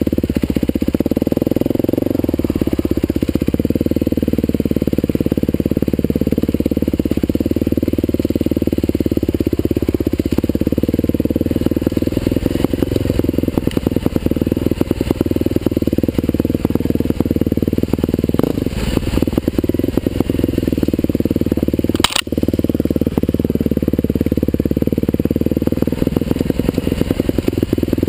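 Husqvarna TE511 dirt bike's single-cylinder four-stroke engine running under way, its note rising and falling with the throttle. Late on there is one sharp knock.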